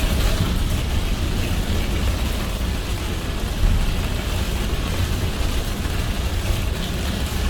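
Car driving in heavy rain: a steady low road and engine rumble with rain hissing on the car and tyres on the wet road.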